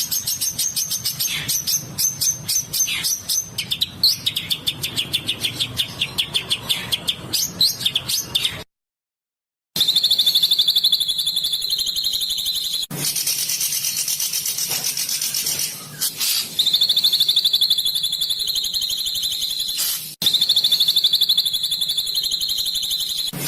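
Recorded songbirds singing. First come rapid runs of short, high, repeated notes. A second of dead silence about 9 s in marks a splice, and after it come long, high, fast trills that start and stop abruptly, spliced one after another.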